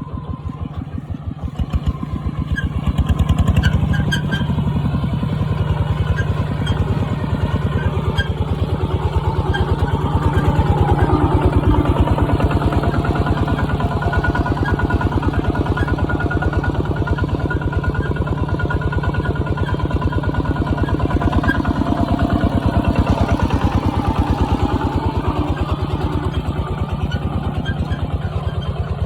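Kubota ZT140 single-cylinder diesel engine of a two-wheel walking tractor running under load while plowing, with a fast steady chugging beat. It grows louder for a while a few times, around 3 s, 11 s and 25 s in, as the load changes.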